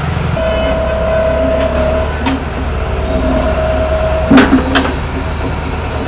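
Hitachi excavator's diesel engine running steadily under load with a steady whine from its hydraulics while it works the boom with a heavy drainage pipe. A couple of sharp metallic knocks come about four seconds in.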